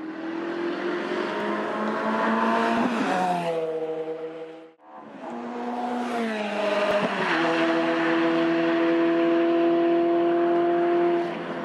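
Ferrari F430 Challenge race car's V8 engine at high revs: the pitch climbs for about three seconds and then steps down, as at a gear change. After a short break the revs fall and then hold steady and loud until near the end.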